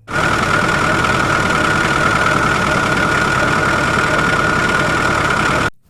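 A machine running steadily with a constant high whine over a dense noise. It starts abruptly and cuts off suddenly near the end.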